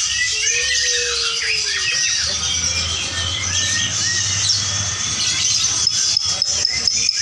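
Many lovebirds chattering and trilling at once in dense, high-pitched chirps, as at a lovebird song contest. From about six seconds in, a fast run of sharp clicks joins the birdsong.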